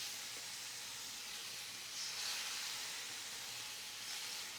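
Curry sizzling hard in a hot pan just after curry-house base gravy has gone in: a steady hiss that swells slightly about two seconds in.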